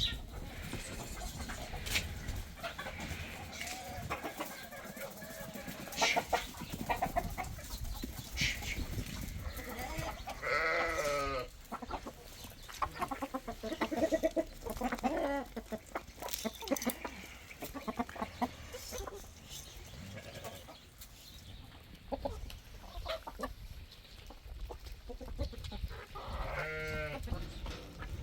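Goats bleating now and then, a few drawn-out wavering calls, among scattered clicks and knocks.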